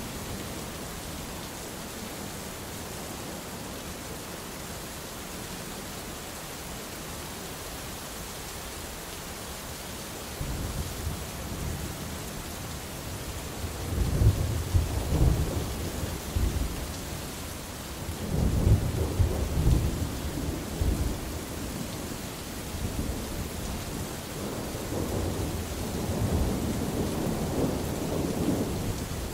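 Steady rain with rolling thunder. The rain hisses evenly at first, then about ten seconds in low rumbles of thunder build. They swell loudest in several rolls through the second half.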